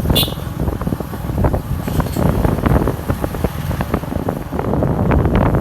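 Wind buffeting the microphone on a moving motorcycle, with a rumble of road and engine noise underneath. A brief high-pitched squeak comes just after the start.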